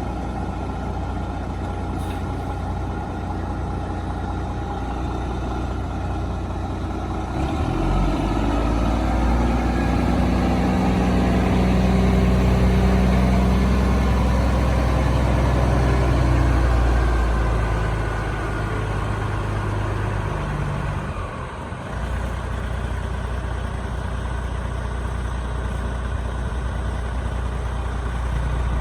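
1999 Kenworth W900B truck tractor's diesel engine idling. About eight seconds in it is brought up to a higher speed and held for roughly ten seconds, then it settles back to a steady idle.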